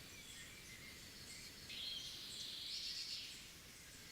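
Faint outdoor ambience of birds chirping and insects, with a slightly louder stretch of high chirping from about two seconds in to about three seconds in.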